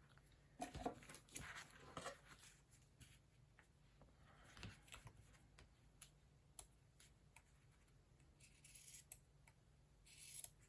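Scissors cutting fabric: faint rustling and light snips, then two longer cuts near the end.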